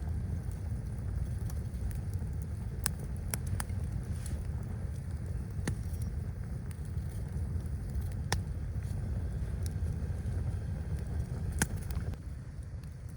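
Blizzard wind making a steady low rumble, with a handful of sharp, scattered snaps and cracks over it.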